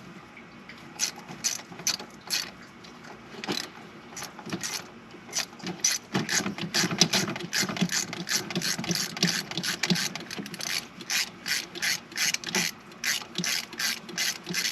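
Hand ratchet clicking as a spark plug is backed out of a VW Vanagon engine. The clicks come in scattered strokes at first, then in a steady run of about three a second from about six seconds in.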